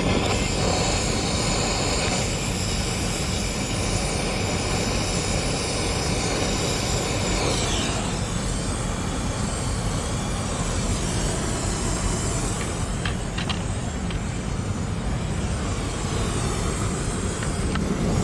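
Daikin air-conditioning unit running steadily with a low rumble. A high electronic whine sits over it and drops away with a falling pitch about eight seconds in. A few light clicks follow later.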